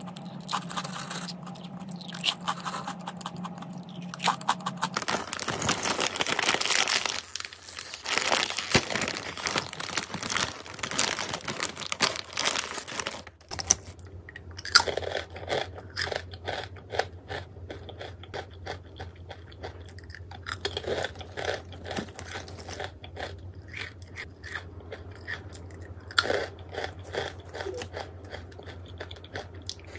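Close-up crunching and chewing of crisp food, mukbang-style. The crunching is loudest and densest from about five seconds in, then settles into a steady rhythm of chewing crunches.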